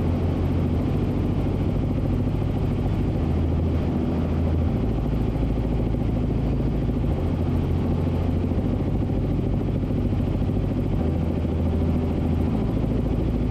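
Helicopter in cruising flight, heard from inside the cabin: a steady, low-pitched drone of rotor and engine.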